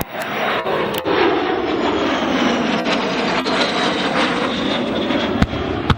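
Jet trainer aircraft flying past: a loud, steady rushing jet noise with a thin high whine, and a couple of sharp clicks near the end.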